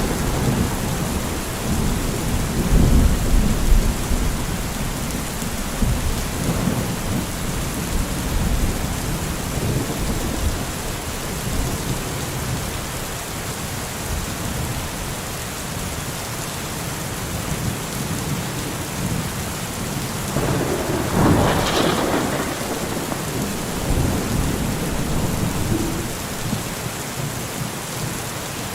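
Steady heavy rain with rolling thunder. The thunder is loudest at the start and dies away over several seconds, and a second, sharper peal comes about two-thirds of the way through.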